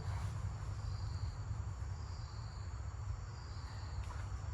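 Insects, crickets by their sound, trilling in short repeated high-pitched phrases, over a steady low rumble.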